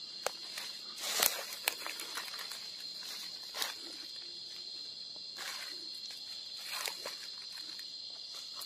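Night insects, crickets among them, trilling in a steady high-pitched chorus, with irregular footsteps and rustling through dense forest undergrowth about every second or two.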